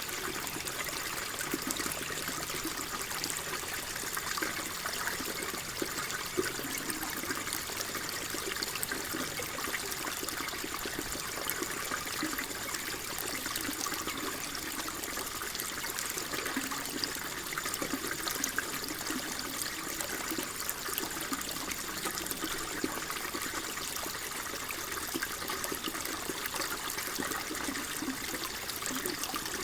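Water flowing and trickling steadily, a constant babble with many small splashes and no change.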